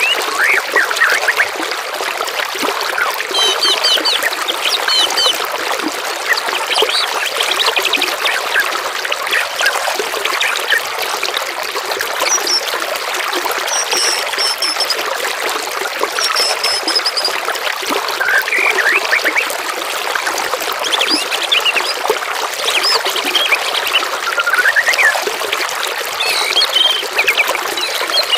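Trickling, flowing water with a mix of songbirds chirping, trilling and whistling over it in short phrases throughout.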